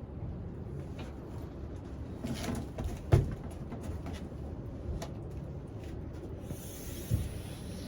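Hinged wooden bed boards on gas struts being raised and lowered: a few dull knocks and thumps, the loudest about three seconds in and another near the end.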